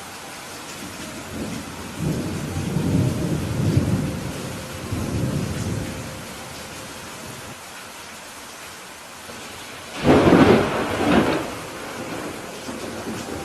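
Steady rain with thunder: a low rumble rolls in about two seconds in and fades out by about six seconds, then a sharper, louder thunderclap comes about ten seconds in.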